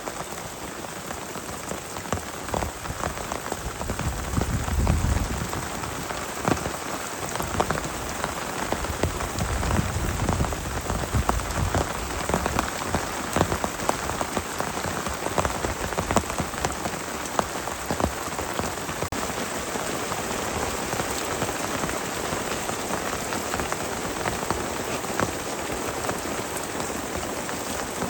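Heavy rain falling steadily on a tent, with many sharp close drop hits throughout. A low rumble swells up twice, about five seconds in and again around ten seconds in.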